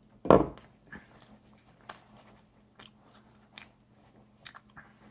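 A person chewing and biting pizza close to the microphone: soft crunches and mouth clicks about once a second. A short loud thump comes about a third of a second in.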